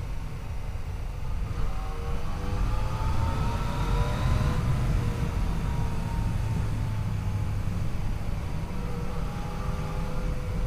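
Yamaha FJ-09's inline three-cylinder engine pulling the motorcycle along, its revs climbing for a couple of seconds and then easing off, over a steady low rumble.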